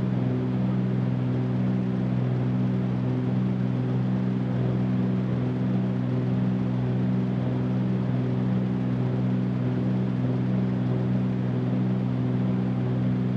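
Cabin drone of a Cessna 310Q's twin piston engines and propellers in the climb after takeoff. It is a steady, low drone.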